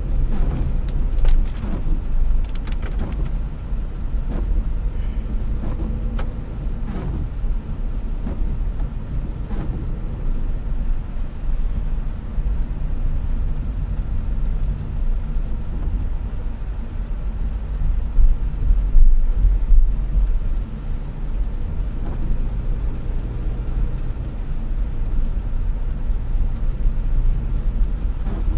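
Honda Elevate driving, a low steady rumble of engine and road noise. There are a few light clicks in the first few seconds, and the rumble swells briefly about two-thirds of the way through.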